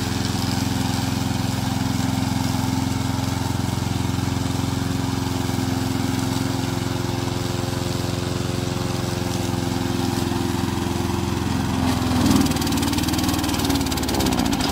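Petrol engine of a remote-control lawn mower running at a steady speed. About twelve seconds in, its pitch wavers up and down.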